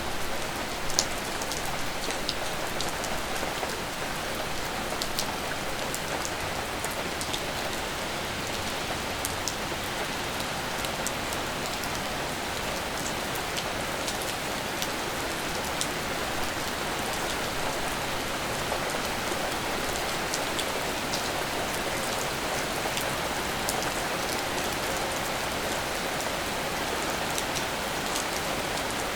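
Steady rain falling, a dense even hiss with scattered individual drops ticking crisply on nearby surfaces, one a little louder about a second in.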